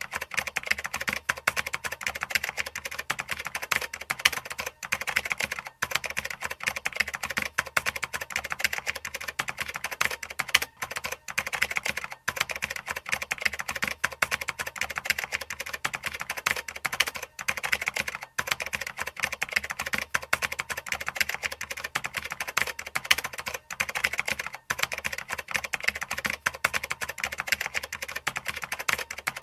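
Continuous fast typing on a computer keyboard: a dense run of key clicks with a few brief pauses between bursts.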